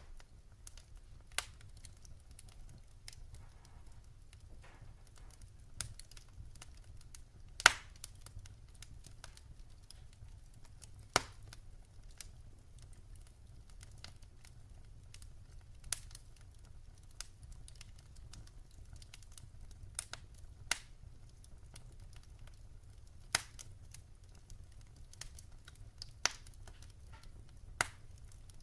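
Wood fire crackling, with sharp, irregular pops of varying strength, the loudest about eight seconds in, over a faint low rumble.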